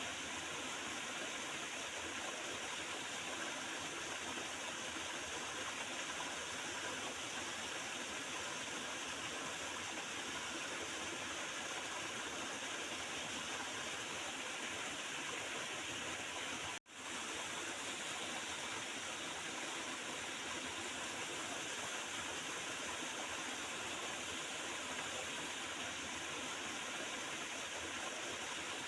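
Small river flowing and gurgling steadily. The sound drops out for an instant about two-thirds of the way through, then carries on unchanged.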